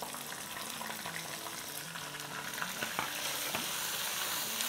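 Potatoes and spice masala sizzling in hot oil in a nonstick frying pan, with a silicone spatula stirring and scraping against the pan in a few short ticks. The sizzle grows louder about three seconds in.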